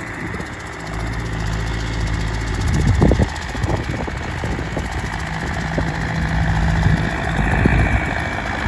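Small Massey Ferguson tractor's diesel engine running steadily, a little louder about three seconds in.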